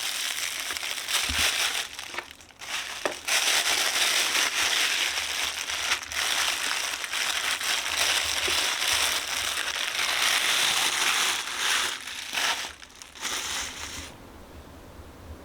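Plastic packaging crinkling and crackling as it is handled and unwrapped, continuous with a short pause early on, stopping abruptly near the end.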